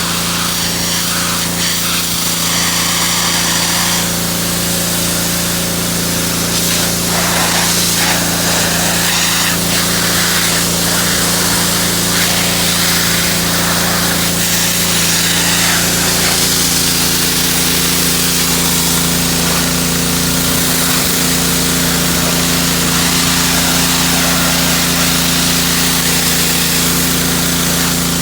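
Pressure washer running steadily: a constant motor hum under the hiss of the water jet spraying a wire birdcage. The hum's pitch shifts about halfway through.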